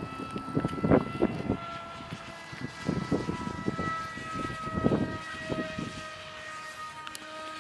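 Electric motor and propeller of a Dynam Hawk Sky RC plane whining in flight, its pitch drifting slowly up and down. Gusts of wind buffet the microphone repeatedly.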